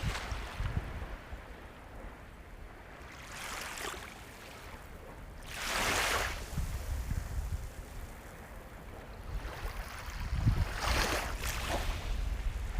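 Ocean waves breaking and washing in as surf: separate surges of rushing hiss swell and fade, the strongest about halfway through and another near the end, over a steady low rumble.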